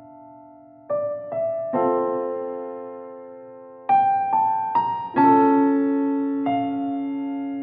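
Background music: a slow, gentle solo piano piece, with single notes and chords struck and left to ring and fade. A short run of notes comes about a second in, and another from about four seconds.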